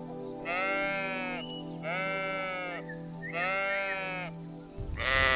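Sheep bleating: three drawn-out bleats about a second and a half apart, then a louder, rougher bleat at the end, over steady background music.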